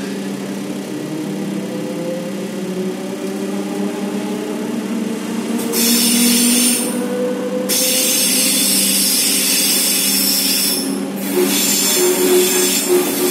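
Electric S-Bahn train pulling away from a station, heard from inside the carriage: the traction motor whine rises slowly in pitch as it gathers speed. About six seconds in, a loud high rushing noise of wheels and rails joins it, and a wavering squeal comes in near the end.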